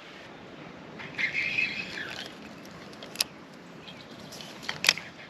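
A bird chirping briefly over a steady outdoor hiss, followed by two sharp clicks about a second and a half apart.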